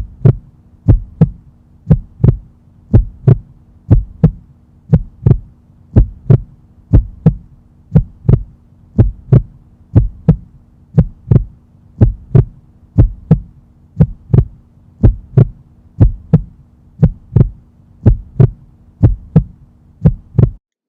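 Heartbeat sound effect: a steady run of deep thumps, about two a second, over a low steady hum, cutting off suddenly near the end.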